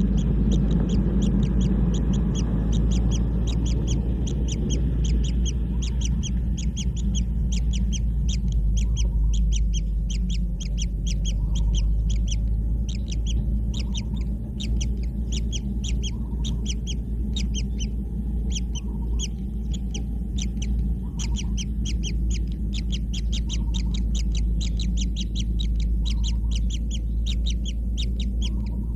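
Kingfisher chicks giving rapid, high, rasping begging calls, about five a second, with brief pauses, over a steady low rumble. A soft lower note recurs every couple of seconds.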